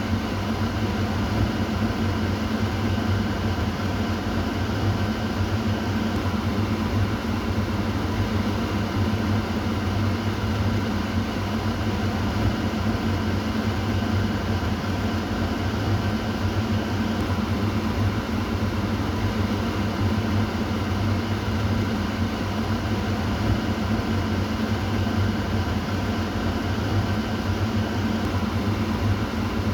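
Kitchen exhaust fan running steadily: a constant low hum with airy rushing noise over it.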